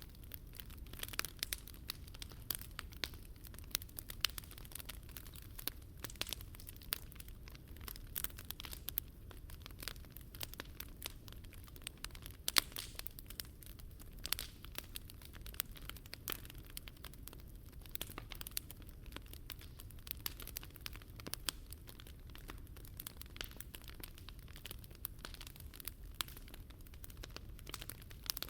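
Wood fire crackling, with frequent sharp irregular pops over a low steady rumble.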